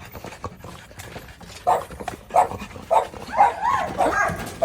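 Presa Canario puppy barking: a few short barks from about one and a half seconds in, then a longer wavering yelp near the end.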